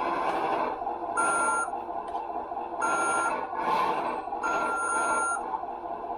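RC scale truck's sound unit playing a diesel engine running through its small speaker, with three electronic beeps, the last one longer, as the gear is pressed.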